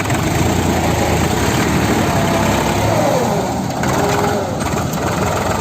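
HMT 5022 tractor's diesel engine running steadily.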